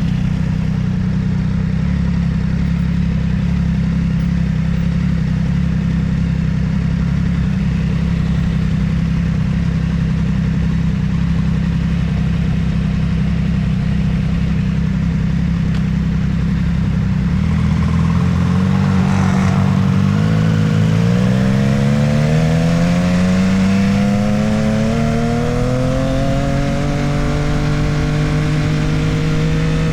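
Motorcycle engine running at a steady low speed, then, a little past halfway, its pitch climbs smoothly as it accelerates before settling at a steady higher note.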